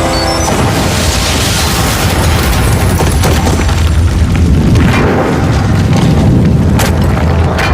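Large explosion sound effect: a deep rumbling blast that begins about half a second in and rumbles on for several seconds, with sharp crashing impacts near the end.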